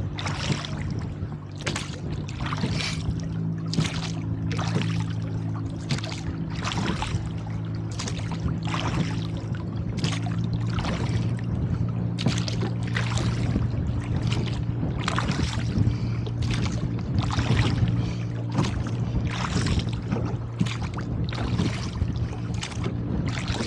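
Oars of a rowboat working steadily, with a splash of water about once a second on each stroke. A steady low hum runs underneath.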